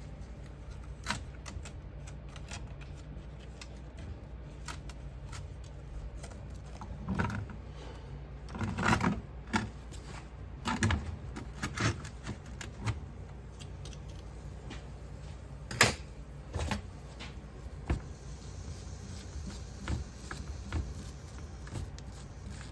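Hand tools clicking, scraping and knocking at a sand-casting flask as a freshly poured silver piece is dug out of Petrobond sand. The knocks come irregularly, a cluster of them about eight to eleven seconds in and one sharp knock a little past the middle, over a steady low hum.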